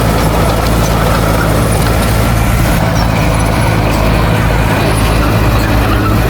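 Heavy diesel earthmoving machine engine running steadily at low, even speed.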